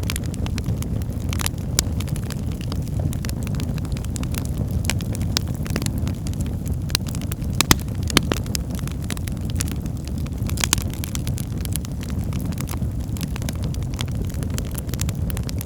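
Wood fire crackling in a fireplace: a steady low rumble of flames with irregular sharp pops and snaps, two louder pops around eight seconds in.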